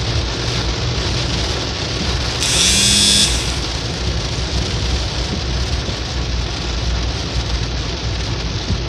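Steady rain falling. About two and a half seconds in, a brief high-pitched squeal lasts under a second and stands out above the rain.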